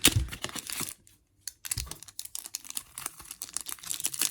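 Pokémon trading cards being handled and slid against one another: a quick run of light clicks and rustles, broken by a short pause about a second in.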